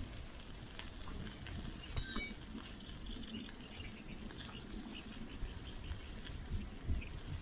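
Scattered small clicks and crackles over a low rumble, with one sharp metallic clink that rings briefly about two seconds in, typical of handling metal cookware by a campfire.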